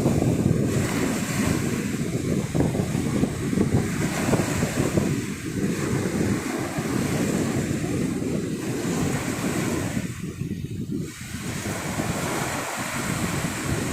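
Sea surf washing onto a sandy beach, mixed with strong wind buffeting the microphone that fills the low end with a rumbling noise.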